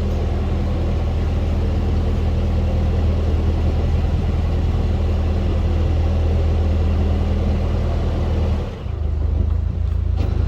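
Canal boat's engine running steadily under way with a low drone. About nine seconds in the sound dips briefly, then the drone carries on.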